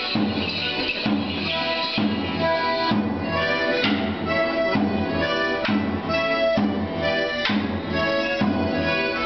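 Traditional English folk dance tune played on an accordion-type squeezebox, with a sharp strike on the beat about once a second.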